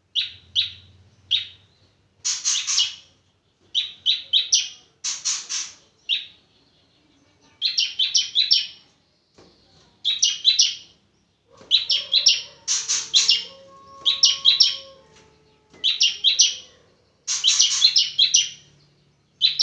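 Ciblek (bar-winged prinia) calling in repeated short bursts of sharp, high chirps, a new burst every second or two.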